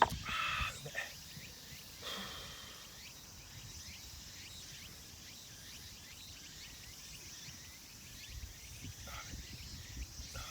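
Open-field outdoor ambience: a steady faint high insect hiss with many small, scattered bird chirps. A sharp knock comes right at the start.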